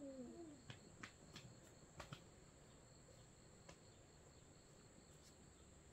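Near silence with a steady high chirring of crickets. A few faint sharp clicks or taps come in the first few seconds, and a short falling vocal sound is heard at the very start.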